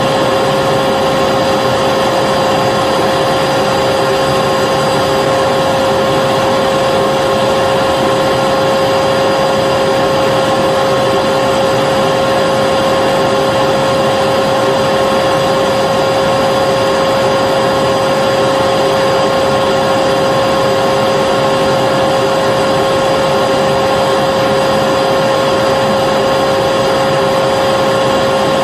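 Vacuum cleaner motor running steadily with an even rushing hiss and a constant whine.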